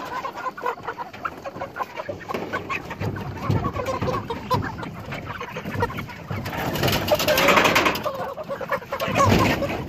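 A flock of broiler chickens clucking and squawking as they are crowded forward in the pen, with a louder scuffling noise about seven seconds in.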